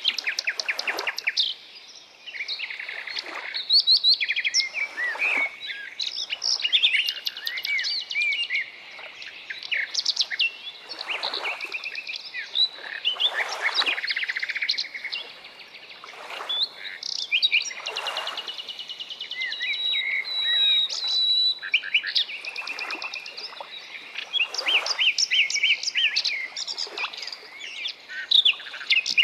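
Several birds singing and calling at once: overlapping chirps, short whistled notes and fast trills, continuing throughout.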